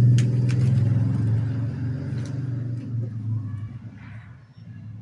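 A motor vehicle's engine running, loud at first and dying away after about three and a half seconds, with a few sharp clicks in the first second.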